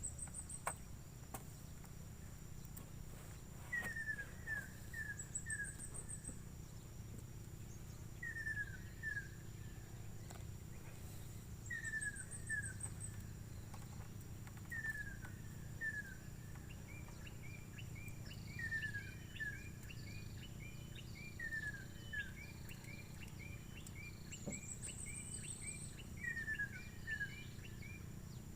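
Birds calling outdoors: one repeats short falling whistles in twos and threes every few seconds, with brief high trills in between, and from a little past halfway another bird adds a quicker run of chirps. Underneath runs a steady high insect hum and a low rumble.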